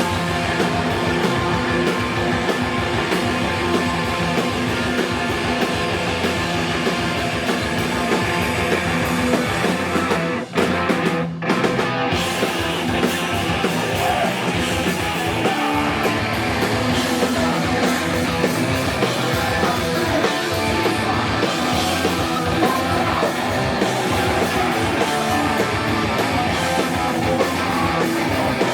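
Live band playing loud punk-style rock with electric guitar, with a brief stop about ten seconds in before it carries on.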